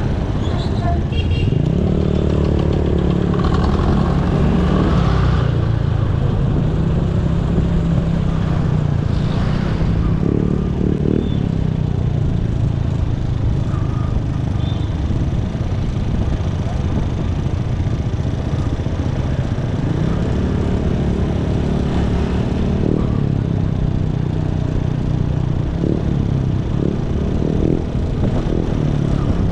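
Motorcycle engine running under way with constant wind and road noise; the engine pitch climbs twice as the bike accelerates and holds steady in between.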